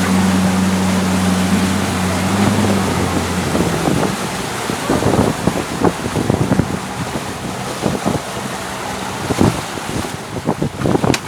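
Motorboat engine droning steadily, fading out about three seconds in. Then wind buffets the microphone over irregular splashing and sloshing of water.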